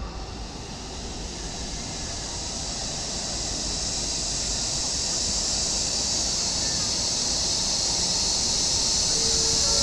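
Steady rushing hiss of a high-speed train moving along the station platform, growing gradually louder.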